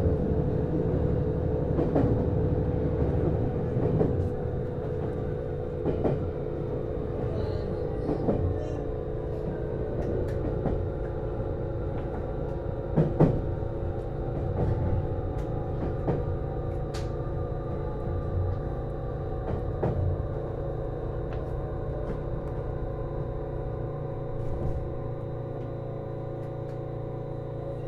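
Series HB-E210 hybrid train heard from inside the car, slowing down. The wheels click over rail joints at ever longer intervals, and a traction-motor whine falls in pitch over a steady running drone.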